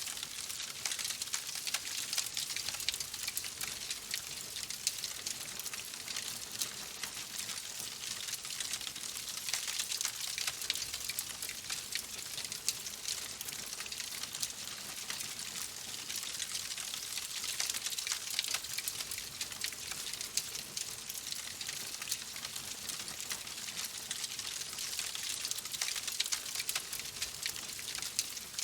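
Wood fire in a fireplace crackling steadily, with a constant patter of small pops and hiss and no pauses.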